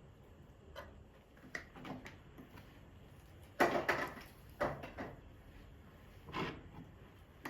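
Household handling sounds: a few light clicks, then a handful of short knocks and clatters. The loudest comes about halfway through and lasts about half a second.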